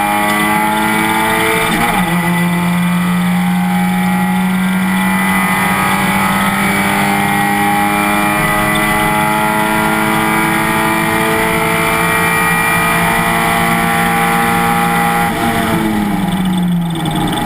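Race car engine pulling hard under full throttle. Its pitch climbs, breaks for an upshift about two seconds in, and then holds with a slow rise. Near the end the revs drop away as the driver lifts, and they pick up again just before the end.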